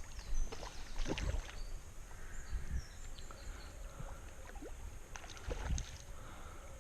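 Water splashing and sloshing as a hooked brown trout is played at the surface and drawn toward a landing net. The sloshes are irregular, with louder splashes about a second in and again near the end.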